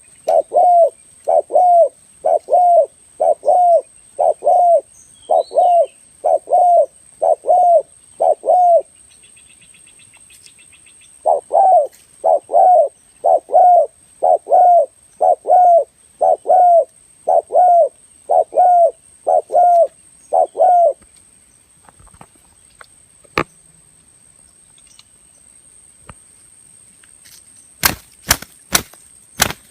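Spotted dove cooing call: short low coos repeated about one and a half times a second, in two long runs with a pause of about two seconds between. Near the end, a quick series of sharp clicks.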